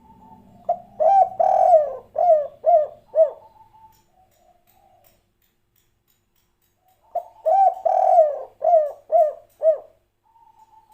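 Spotted dove (derkuku, tekukur) singing its 'kuk 3' coo: two cooing phrases, each a quick run of about six low coos, the second following after a pause of about four seconds.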